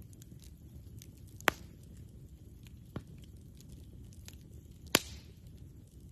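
Wood campfire crackling with faint ticks and a few sharp pops, two loud ones about a second and a half in and near the end, and a softer one in between, over a low steady rumble.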